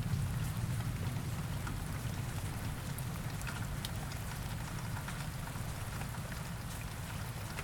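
Steady rain falling, with scattered drops ticking over a dense hiss. A low thunder rumble dies away in the first second.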